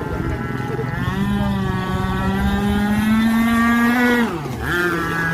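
Zenoah 26cc two-stroke petrol engine of an RC V-hull boat running at high revs, its pitch creeping up for about three seconds, then dropping sharply a little after four seconds in and settling back to a lower steady speed.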